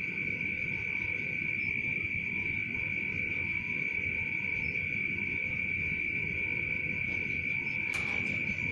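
A steady, high-pitched insect trill that holds one unbroken note, over a low rumbling background. A short click comes near the end.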